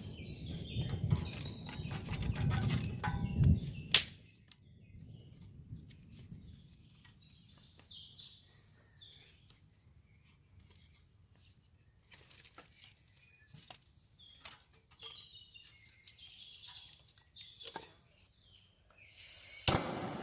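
Small birds chirping now and then, with scattered light clicks. A low rumble fills the first few seconds and ends with a sharp click about four seconds in. A steady rushing noise starts just before the end.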